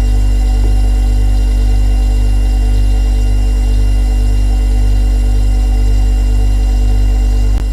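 Refrigerator compressor running with a steady low hum, with a brief click near the end.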